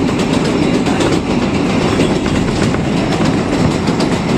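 New York City Subway 7 express train running, heard from inside the car: a steady rumble with the wheels clattering over rail joints.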